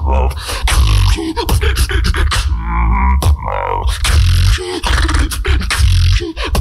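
Solo beatboxer performing a fast groove of deep mouth-made bass kicks with sharp snare and hi-hat clicks. About three seconds in, a pitched, gliding vocal sound cuts through the beat.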